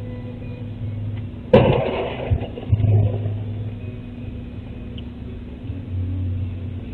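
Car running with a steady low hum, broken about one and a half seconds in by a sudden loud bang and a second or so of rattling and clatter, the sound of a vehicle collision recorded by a dashcam.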